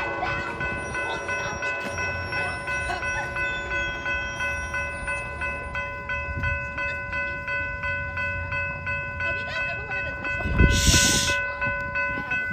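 Train sounds: a low rumble under a steady chord of several high ringing tones that pulse about three times a second, with a brief loud burst of noise about two seconds before the end.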